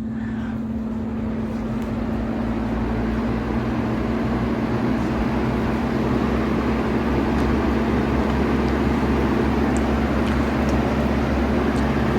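Aerospeed BX100 box fan running on its low speed: a steady electric-motor hum under an even whoosh of air, gradually getting a little louder.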